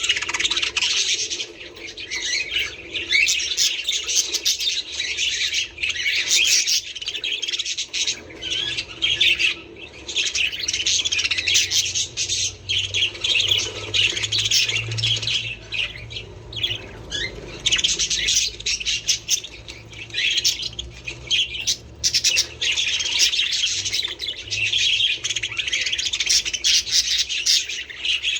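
A flock of budgerigars chattering and squawking, many short chirps overlapping without a break.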